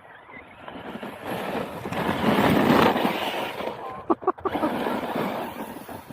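Team Corally Asuga XLR radio-controlled truck running on a 6S battery, its motor and tyres getting louder and peaking about two to three seconds in before falling away, with wind on the microphone.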